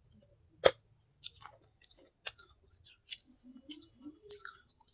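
Close-up biting and chewing of baked clay pot (handi) pieces. One loud sharp crack comes about a second in, then a run of irregular crunches and clicks.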